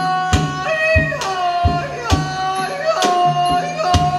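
Northeastern Thai pong lang folk ensemble playing: a sustained melody line that slides between held notes over a low drone, with a steady drum beat about every half second.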